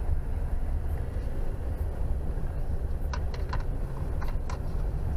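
A quick run of about six sharp clicks about three seconds in, from handling the battery and its hold-down hardware under the seat, over a steady low rumble.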